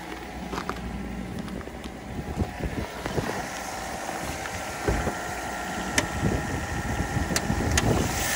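Mitsubishi Pajero Mini's small 660 cc four-cylinder engine idling while still cold from a frosty start, with irregular footsteps in snow. A few sharp clicks come near the end.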